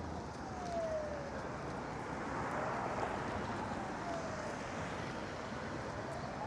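A siren wailing, its pitch sweeping slowly up and down about every three seconds, over steady street traffic noise.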